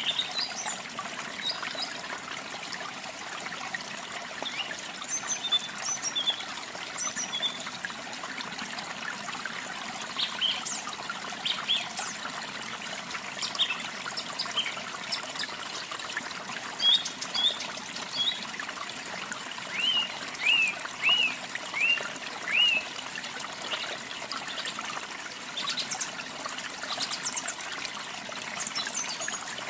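Steady trickling water with small birds chirping over it; about two-thirds through, a bird gives a run of five short calls that slide down in pitch.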